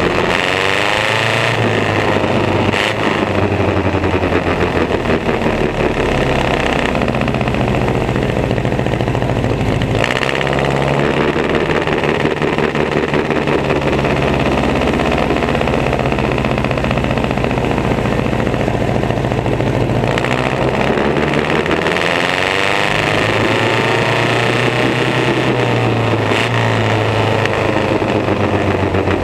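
Antique race car engine running loud and steady, its pitch sweeping up and down with the revs near the start and again about two-thirds of the way through.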